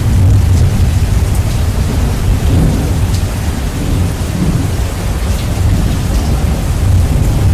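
Steady heavy rain with a continuous low thunder rumble. The track is heavily bass-boosted, so a loud, deep rumble dominates the hiss of the rain.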